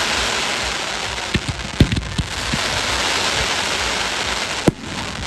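Fireworks going off: a dense, continuous crackle with scattered sharp bangs, the loudest bang near the end, after which the crackling dies down.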